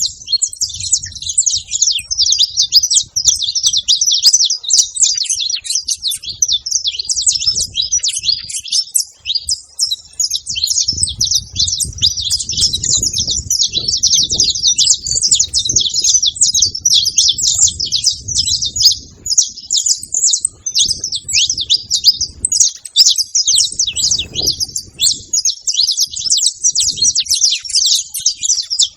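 Several saffron finches chirping and singing together in a continuous, dense stream of fast, high chirps.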